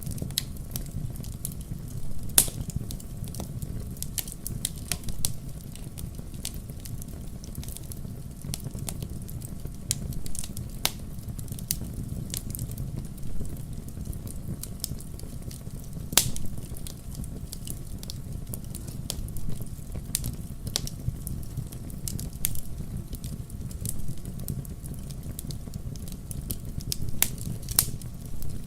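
Fire in a fireplace crackling, with a steady low rumble of burning and irregular sharp pops and snaps. A few louder pops stand out, about two seconds in, around the middle, and near the end.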